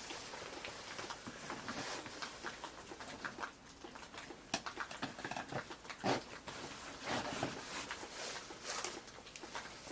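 Swedish torch log burning, with an even hiss and scattered crackles and pops.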